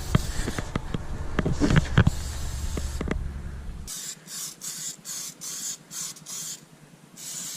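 Aerosol can of rust converter spraying in a string of short hissing bursts in the second half, after a few sharp clicks of handling.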